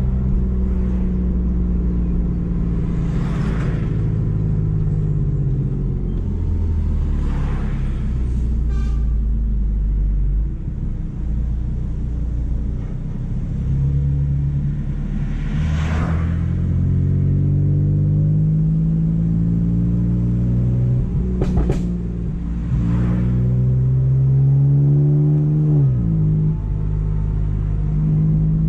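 BMW M4's twin-turbo straight-six through a decatted Akrapovic exhaust, its note repeatedly rising and falling as the car accelerates and eases off. A few brief sharp cracks come in the middle stretch, and the revs drop steeply near the end.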